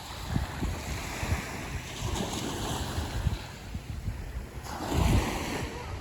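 Wind gusting on the microphone over waves washing on the shore, with a louder surge about five seconds in.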